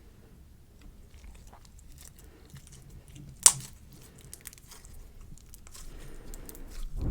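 Clear slime with little watermelon charms mixed in, being squished and worked by hand: soft sticky clicks and crackles, with one sharp pop about halfway through.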